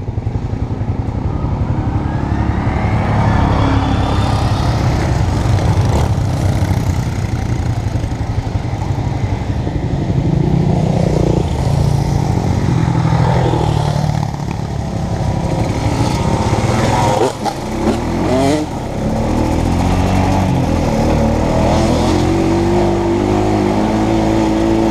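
2016 Honda Foreman Rubicon ATV's single-cylinder engine running hard on the trail, its pitch rising and falling with the throttle. About seventeen seconds in it briefly drops off, then picks up again.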